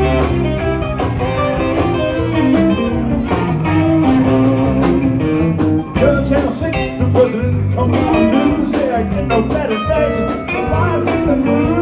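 Live rock band playing an instrumental passage: electric guitar over bass and drums in a blues-rock groove, with bent guitar notes from about halfway through.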